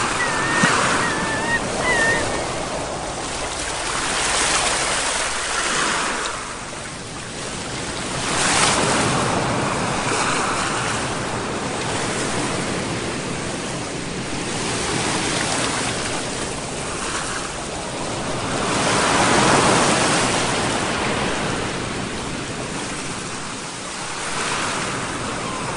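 Sea waves breaking and washing in, the surf swelling and falling every few seconds, loudest about three-quarters of the way through.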